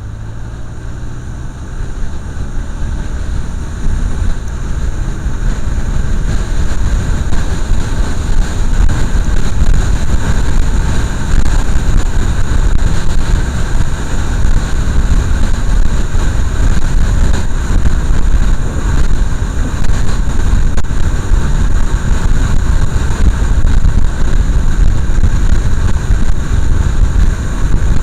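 Motorcycle under way: engine running with heavy wind rushing over the microphone, growing louder over the first few seconds as it picks up speed, then steady.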